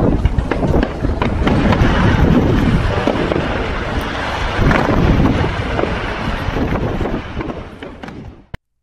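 Fireworks display going off: bangs and crackling over the noise of a crowd, with wind on the microphone. It fades away about eight seconds in.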